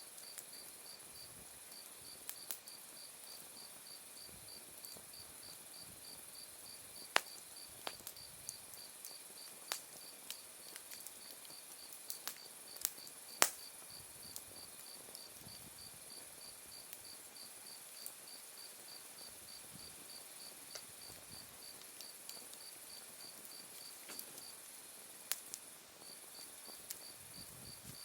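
Autumn night insects calling steadily: a constant high trill with a regular pulsing chirp over it. An open wood fire snaps and pops now and then, the loudest pop about halfway through.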